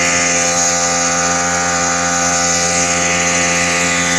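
Kawasaki 1100 ZXI jet ski's two-stroke three-cylinder engine running at a steady speed, freshly installed and being broken in on a double-oil mix.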